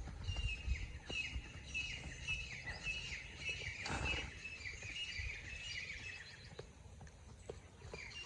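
A bird calling in a quick series of short, falling chirps, about two or three a second, fading out after about seven seconds.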